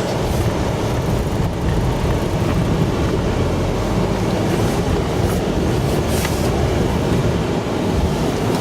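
Vehicle engine pulling in second gear with its tyres churning through deep snow, a steady rumble.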